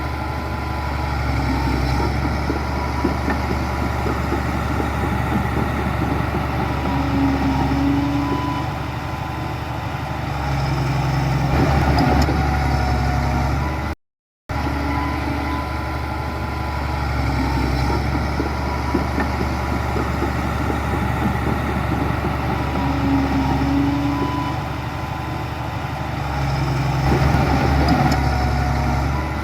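Heavy diesel engine of earthmoving machinery running steadily, working harder for a couple of seconds near the middle and again near the end. The sound cuts out for a moment about halfway through.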